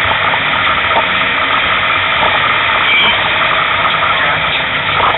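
A rally car's engine and road noise heard from inside its roll-caged cabin, loud and steady.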